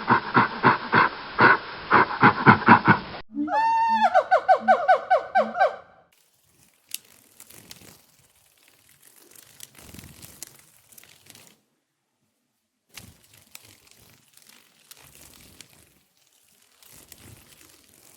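A fast run of short animal calls for about three seconds, then a single call that rises and falls and a quick string of notes. After that there is only faint rustling.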